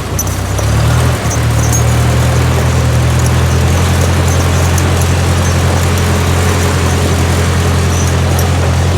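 1955 Ford 660 tractor's 134 cubic inch Red Tiger four-cylinder engine running steadily. It gets louder about a second in, then holds even.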